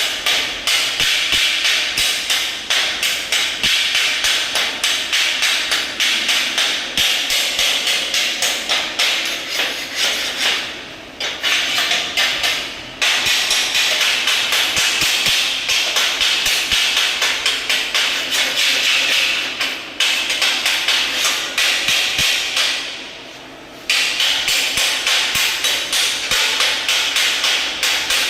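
Hammer striking metal in a steady run of rapid blows, about three a second, with two brief pauses.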